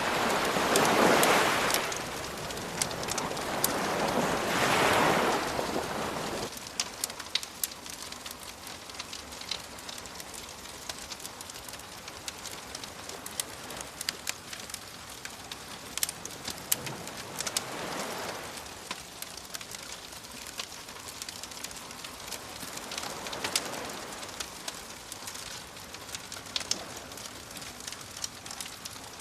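Campfire crackling with frequent sharp pops, over ocean waves washing onto a shore. Two strong waves surge and recede in the first few seconds, then the surf drops back and two softer waves wash in later on.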